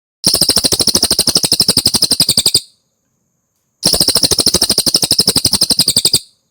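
Cililin bird singing: two fast, rattling trills of rapidly repeated high notes, each a little over two seconds long, about a second apart.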